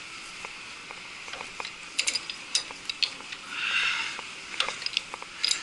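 Scattered sharp metallic clicks and clinks of hand tools working on metal fan-hub hardware, with a short hiss about four seconds in.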